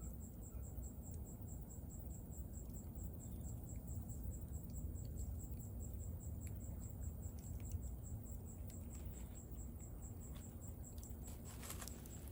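A bonfire burning, with a low rumble and scattered sharp crackles that bunch together near the end. Behind it a cricket chirps in a fast, even, high-pitched pulse throughout.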